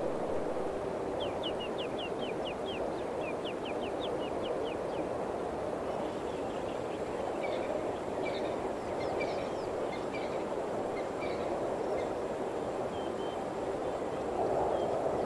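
Birds singing over a steady rushing noise. A quick run of about a dozen short falling notes in the first few seconds, then scattered chirps and twitters.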